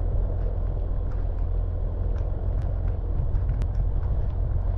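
Vehicle driving along a dirt forest track: a steady low rumble of engine and tyres, with scattered sharp ticks over it.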